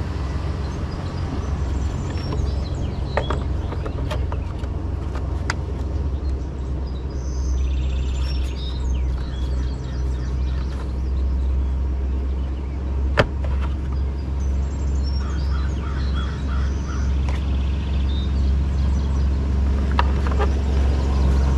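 Steady low rumble with birds chirping and a few sharp clicks, the loudest about halfway through.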